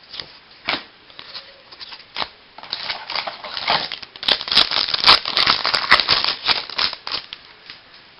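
Baseball trading cards being handled and flipped through: a run of light clicks and crinkling, sparse at first and densest from about two and a half to seven seconds in.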